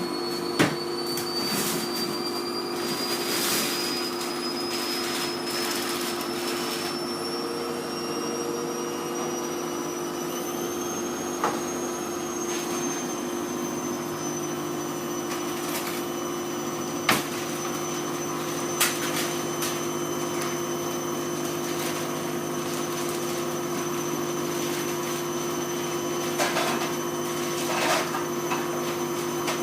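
Hoover Vision Tech VT 914 D22X washing machine spinning, its motor whine slowly rising in pitch as the drum speeds up over a steady hum. A few short sharp knocks come through it.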